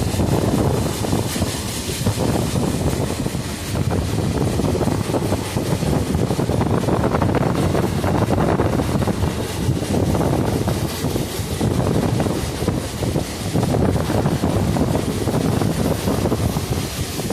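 Wind buffeting the microphone over the steady rumble of a moving train, surging louder and softer every couple of seconds.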